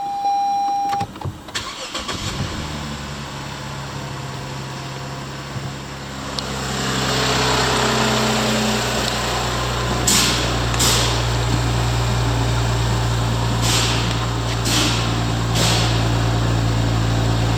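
Lexus GS250's 4GR-FSE 2.5-litre V6 cranking briefly and starting about two seconds in, then idling steadily; a steady beep sounds during the first second. The idle gets louder about six seconds in, and several short sharp clicks come in the later half.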